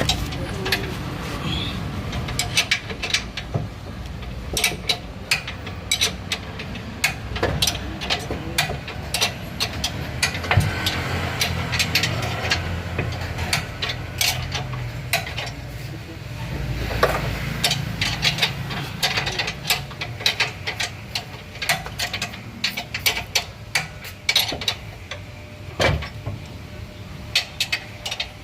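Metal hand tools working on a car's underbody: irregular sharp clinks, knocks and ratcheting clicks over a steady low hum.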